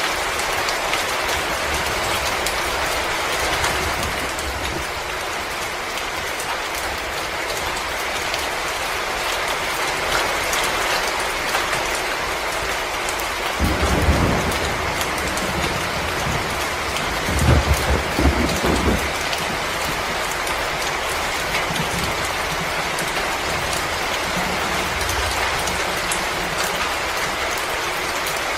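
Wood fire crackling in a fireplace: a steady hiss peppered with many small snaps, with a couple of louder, deeper pops or thuds about halfway through.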